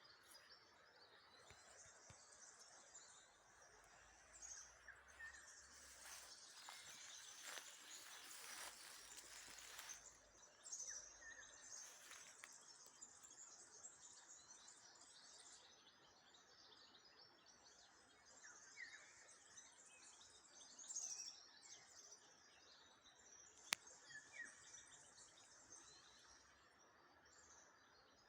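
Faint birds chirping and calling over a quiet outdoor background, with a brief rustling stretch about a third of the way through and a single sharp click near the end.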